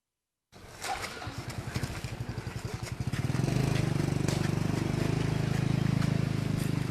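An engine starting up about half a second in, its beat slow and uneven at first, then quickening and holding steady from about three seconds in.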